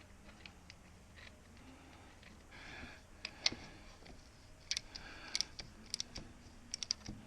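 Irregular sharp clicks and light knocks, about eight of them, from hand tools and a gear-oil hand pump being handled on the Jeep's drivetrain.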